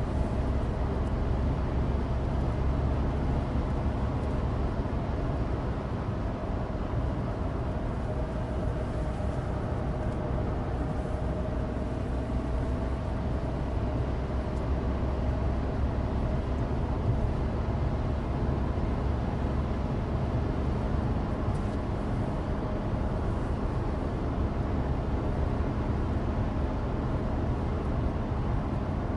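Steady in-cabin drive noise of a 2016 Suzuki Alto Turbo RS: the 660 cc turbocharged three-cylinder engine running at a constant pace under a low road rumble from studless winter tyres on dry asphalt.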